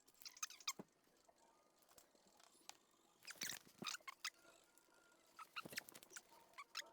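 Faint clusters of light clicks and knocks, three bursts a couple of seconds apart, from the offside front suspension of a Mercedes C63 S AMG (W205) as the car is bounced by hand: the knock that the mechanic traces to the front shock absorber.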